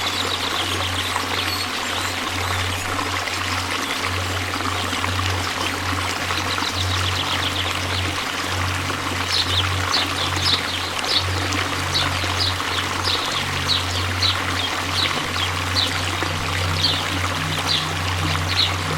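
Waterfall rushing steadily with falling and splashing water. From about halfway in, a small creature calls over it with short high chirps, repeated about twice a second.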